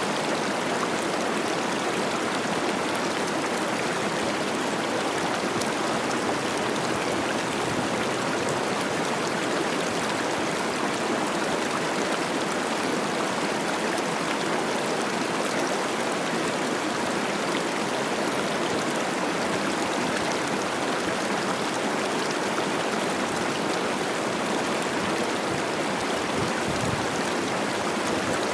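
Cache la Poudre River running high with spring snowmelt, its rushing and babbling water a steady, even noise.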